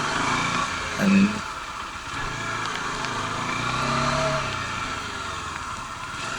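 Bajaj Dominar 400's single-cylinder engine running on the move under a steady hiss of wind and road noise. The engine note rises a little and eases off again about halfway through.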